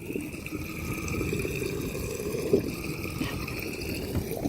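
Water running or being pumped, with a steady high whine over a low, crackly rush.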